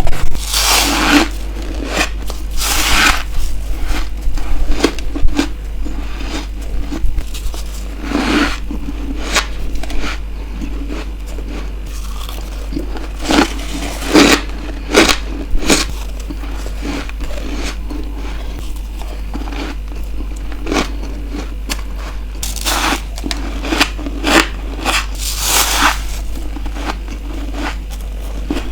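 Close-miked bites and chewing of freezer frost ice: crisp crunches come every few seconds, with a cluster of several near the end, over a steady low hum.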